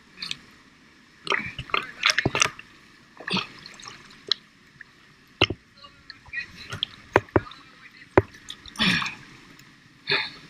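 Water splashing and dripping close to the microphone in short, irregular bursts, with sharp clicks between them.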